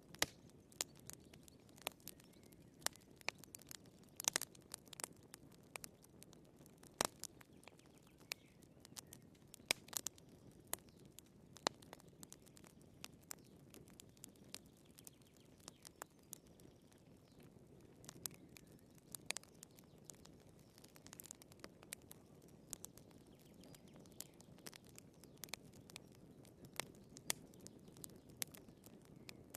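Firewood burning in a fireplace: a soft steady hiss with many sharp, irregular crackles and pops.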